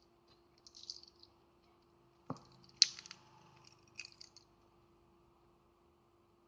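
Small clicks and scraping from tools and parts being handled while a smartphone is taken apart: a short scratchy rustle about a second in, a sharp click near three seconds, and a few lighter clicks just after, over a faint steady hum.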